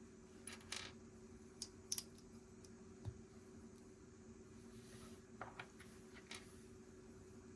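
Faint, scattered clicks and light rattles of small plastic Lego pieces being handled and pressed together, over a steady low hum.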